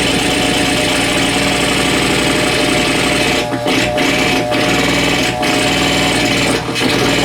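Amplified electrical buzz from compact fluorescent bulbs that cannot dim properly, picked up by exposed guitar cables and shaped with dimmer switches: a loud, dense buzzing drone with several steady tones. About halfway through it cuts out in a few brief gaps.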